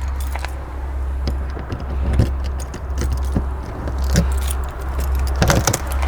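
A ring of keys jangling and clicking against a lock as a locked RV exterior storage compartment is unlocked, with a cluster of louder clicks from the latch and door near the end. A steady low rumble runs underneath.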